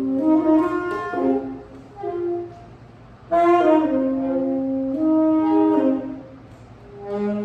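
Free-jazz ensemble of tenor and alto saxophones playing long held notes together in loose, overlapping lines. The phrase thins out after about a second and a half, the horns come back in together at about three seconds, and they drop away again near the end.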